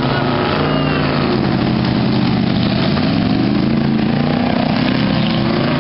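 Motorboat engine running steadily, its pitch sliding down and back up.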